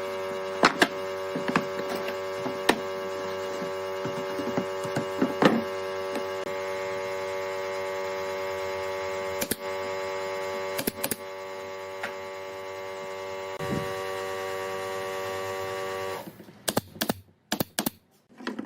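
A workshop power tool's electric motor running with a steady, even hum. Sharp wooden knocks and clicks sound now and then, and the motor cuts off about sixteen seconds in, followed by a few more knocks.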